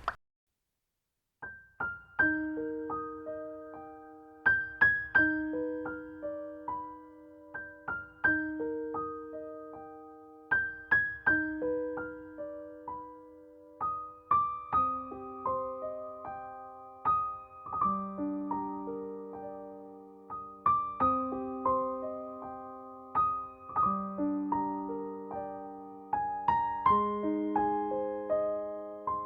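Soft piano music: a slow, gentle melody of single struck notes over sustained bass notes, starting after a second or so of silence.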